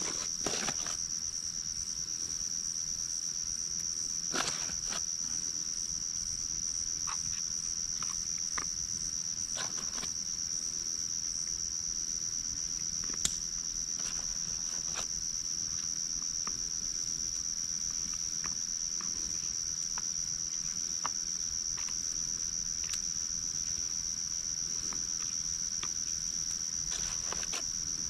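Crickets calling in a steady, unbroken high-pitched chorus, with scattered faint clicks over it and one sharper click about halfway through.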